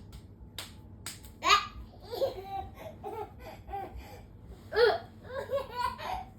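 A baby laughing in a run of short bursts, with two louder peaks, one about a second and a half in and one near the end.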